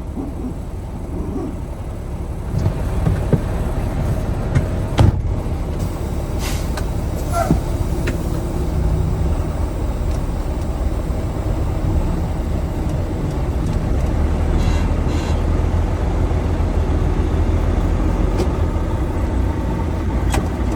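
Semi truck's diesel engine running steadily, a low rumble that swells slightly a few seconds in, with a sharp click about five seconds in.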